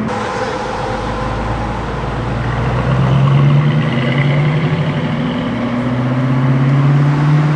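A car engine running at low revs, its pitch rising gently twice as it pulls away slowly.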